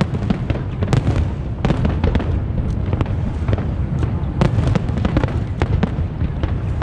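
Large fireworks display: a rapid, irregular stream of sharp bangs and crackles over a continuous low rumble of booming shells.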